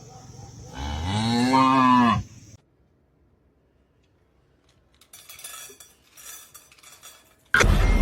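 A single long, low animal call that rises and then falls in pitch. A few faint clicks follow after a short silence.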